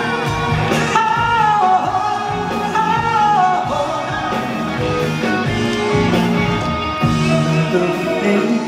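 Live band playing the instrumental intro of a pop ballad through a concert PA: a melody line over sustained chords and bass.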